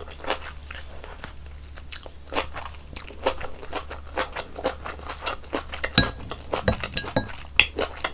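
Close-miked eating sounds: chewing and slurping mouthfuls of beef seaweed soup and rice, with many small irregular wet clicks. About six seconds in a sharper click leaves a brief ring.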